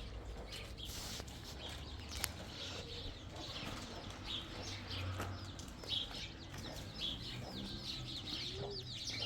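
Chickens calling: a run of short, high peeps and cheeps that come thicker in the second half.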